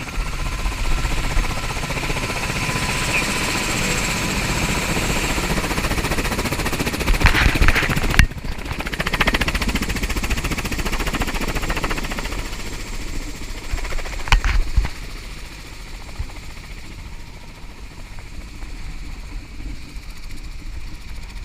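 Helicopter running, with the rapid steady chop of its rotors and engine. The sound changes abruptly about eight seconds in and grows quieter past the middle.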